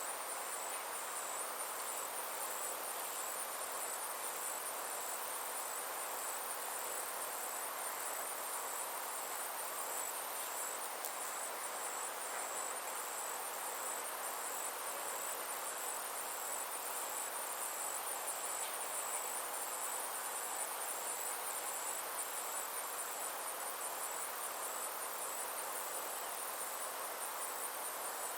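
Chorus of summer insects, a steady high-pitched pulsing trill, over a soft even hiss.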